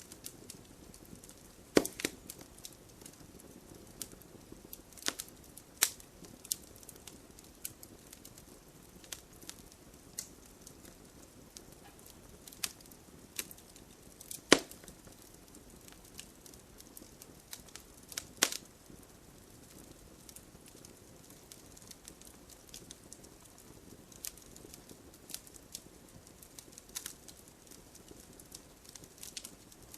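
Wood campfire burning: a soft steady hiss under irregular crackles and sharp pops, the loudest about 2 s, 14 s and 18 s in.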